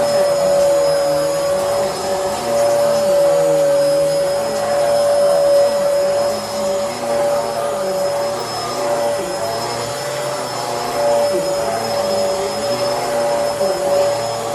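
Bissell Helix upright vacuum cleaner running: a steady motor whine over a lower hum that wavers up and down about once a second.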